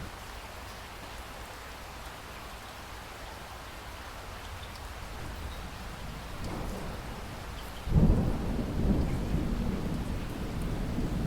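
Steady rain falling, with a sudden thunderclap about eight seconds in whose low rumble rolls on to the end.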